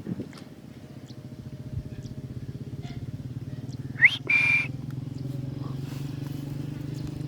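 Parrot giving a short, sharp rising squawk about four seconds in, then a brief whistled note, over a low, rapidly pulsing drone.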